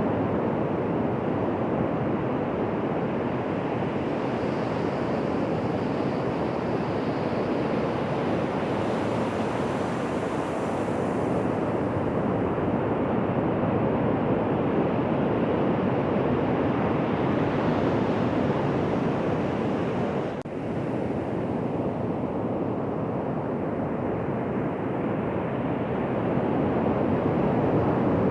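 Ocean surf washing onto a beach: a steady rush of breaking waves, with a brief dip about two-thirds of the way through.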